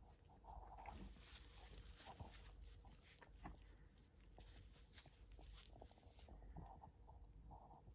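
Near silence with faint rustling and scattered light taps and knocks from sheep moving about in a pen.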